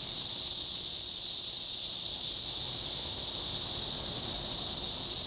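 Steady, loud, unbroken high-pitched chorus of many 17-year periodical cicadas droning together.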